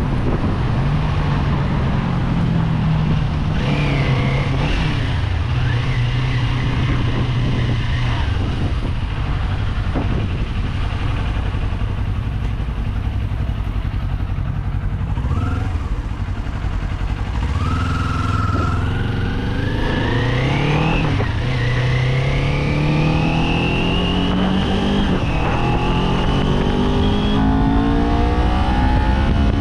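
Kawasaki Z400's parallel-twin engine running under way, holding a fairly steady note at first, then accelerating: the pitch climbs, drops back at an upshift about two-thirds of the way through, and climbs again toward the end.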